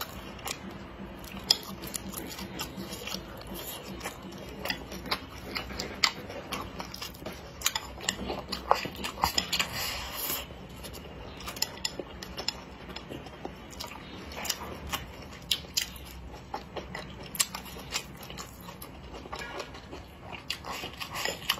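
Close-miked chewing of fatty cured pork belly: wet, sticky mouth sounds with many short, irregular clicks.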